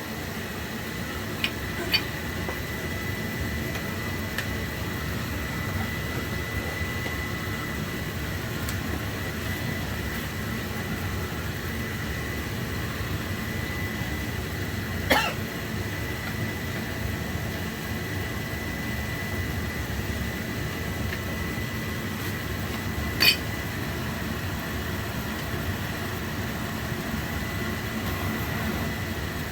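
Oil boiler burner firing steadily: a low, even rumble of burner fan and flame with a faint steady high whine, while it runs short of air and high in CO. A few sharp clicks break in, the loudest about 15 and 23 seconds in.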